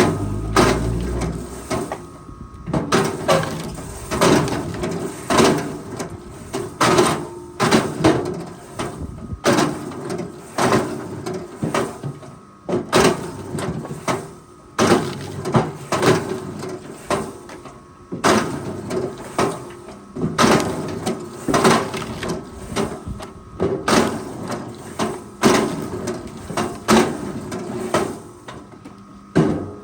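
Forestry machine at work: a steady engine hum under irregular metallic clunks and knocks, about one or two a second.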